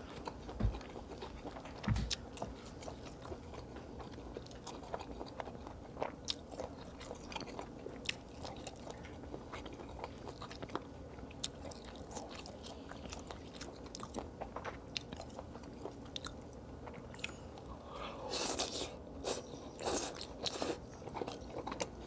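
Close-miked mukbang eating sounds: a person biting and chewing cheese, with scattered sharp mouth clicks. The chewing gets louder and denser near the end.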